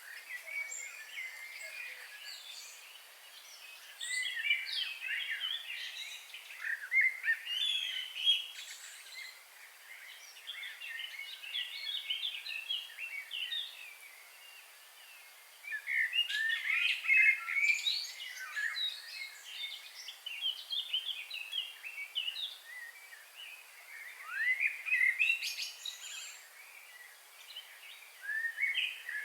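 Several songbirds singing in bouts of rapid, busy chirps and warbles over a faint steady background hiss.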